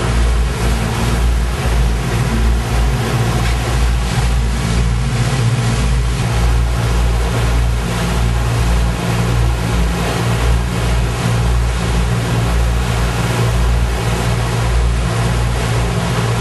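Boat engine running steadily under way, a constant low drone with the rush of wind and water over it.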